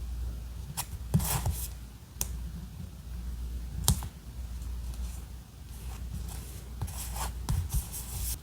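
Paper-crafting handling sounds from diary decorating: scattered short rustles, clicks and taps of paper and stickers being handled, over a low steady hum.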